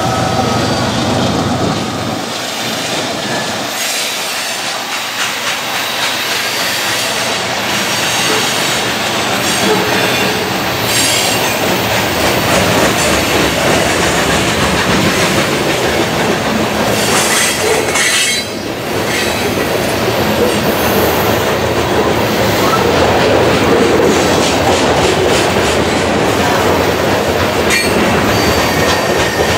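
Freight train passing close by: a diesel locomotive's low engine drone fades in the first couple of seconds, then a long string of covered hopper cars rolls past with steady wheel noise, clacking over rail joints and squealing wheels.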